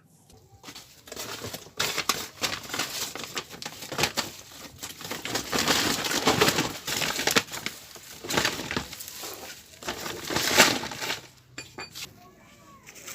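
Dry firewood being handled and broken: irregular crackling, snapping and crunching with several louder swells, stopping near the end.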